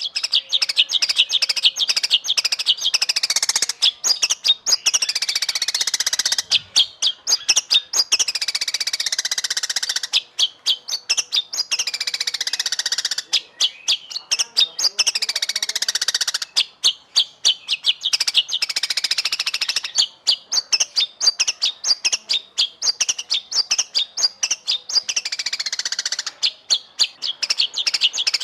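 White-rumped shama (murai batu) song: a dense, continuous run of rapid stuttering trills, chattering notes and falling whistled sweeps, which starts abruptly after silence.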